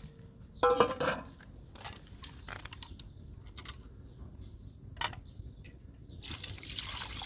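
A few knocks and clatters, the loudest about a second in, then water starts running or pouring steadily about six seconds in.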